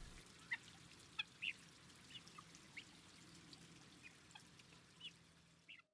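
Faint, short bird calls scattered every half second or so over a low steady hum.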